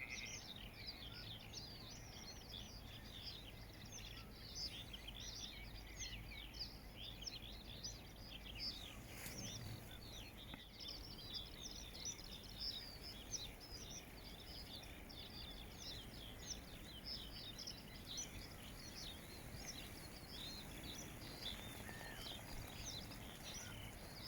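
Many birds calling at once, a dense stream of short, quick, high chirps overlapping throughout, over a faint low rumble.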